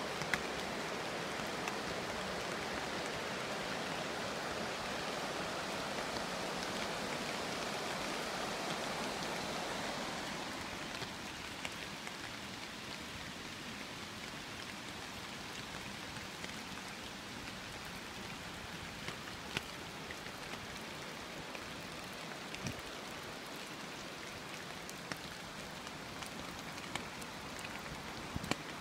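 Steady rain falling, a constant hiss with scattered sharp drop ticks. The hiss eases a little about ten seconds in, and after that single drops tapping stand out more clearly.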